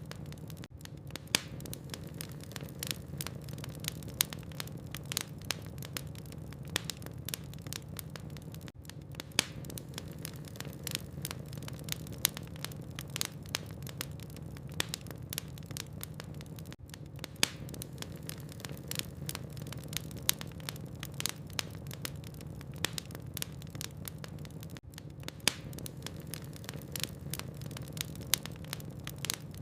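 Logs burning in a fireplace: irregular sharp crackles and pops, several a second, over a steady low hum.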